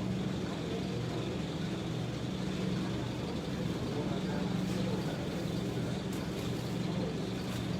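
Steady low mechanical hum with a faint background hiss.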